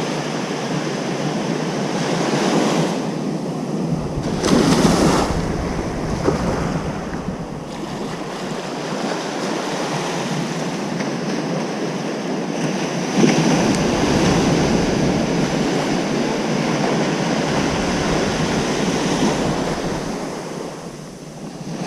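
Ocean waves breaking and washing on a beach: a continuous surf hiss that swells as waves break, with wind rumbling on the microphone at times.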